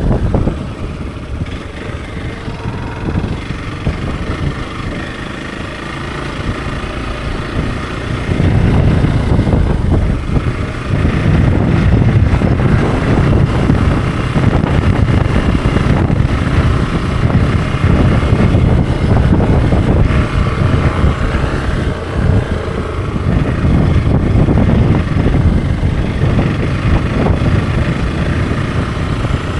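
Hero XPulse 200 4V's single-cylinder 200 cc engine running while the motorcycle is ridden, heard from on board. About eight seconds in it gets clearly louder and rougher and stays that way.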